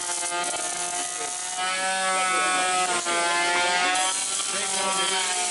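A power tool's motor running with a steady whine, its pitch wavering slightly as it works.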